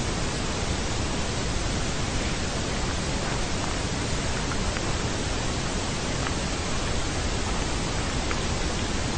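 Steady, even hiss of static from an untuned television's 'snow', unchanging throughout.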